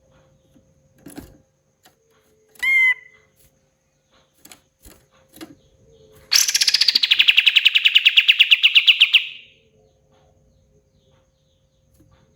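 Songbird calls: a short pitched note, then a loud, fast rattling trill lasting about three seconds, made of rapid evenly spaced pulses.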